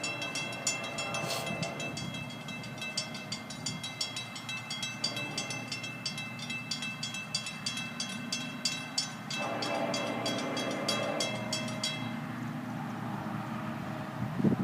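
Railroad grade crossing bell ringing rapidly, about three strikes a second, and stopping about twelve seconds in, over the low rumble of an approaching freight train.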